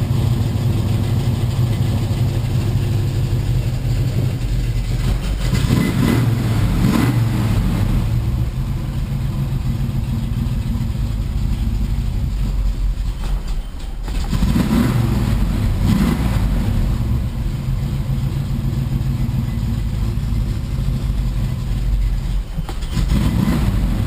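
1977 Camaro's 350 small-block V8 running cold just after a start, blipped up on the throttle three times. It is cold-blooded and struggling to stay running, with an electric choke that needs replacing.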